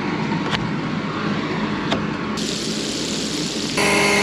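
Engine running steadily, with two light clicks in the first two seconds. Near the end the sound changes abruptly to a louder, steadier hum.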